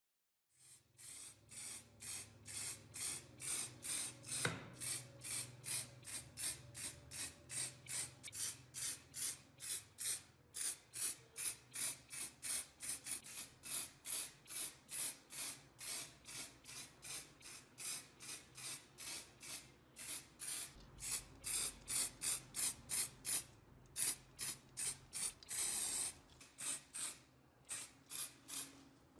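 Rhythmic hand scraping or abrading strokes, about three a second, each a short hiss, with a few brief pauses.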